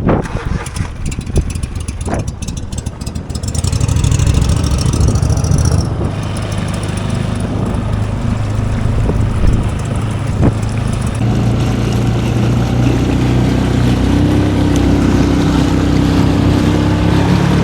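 Boat motor running, getting louder about three seconds in and then holding steady, with its pitch climbing slightly near the end as the boat gets under way.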